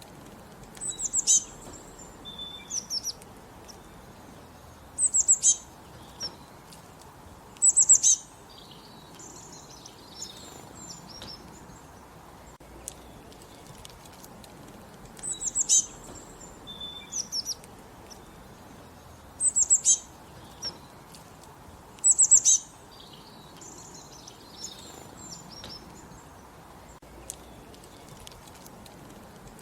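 Songbirds singing: one bird repeats a short, very high-pitched song phrase every three to four seconds, with softer chirps between phrases over a faint steady background hiss.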